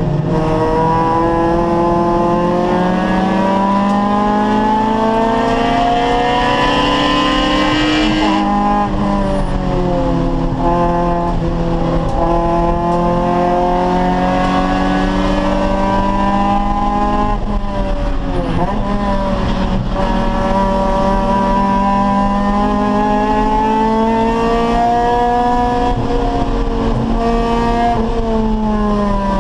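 Acura Integra race car's four-cylinder engine under hard acceleration on track, its pitch climbing for several seconds at a time. The pitch drops sharply about a quarter of the way in, dips with a quick downward slur about two-thirds of the way in, climbs again and falls off near the end.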